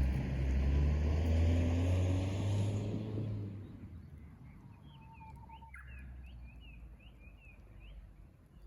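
A passing vehicle's low engine rumble fades out over the first three and a half seconds. Then a Japanese bush warbler sings: a held whistle, followed by a quick run of rising-and-falling notes.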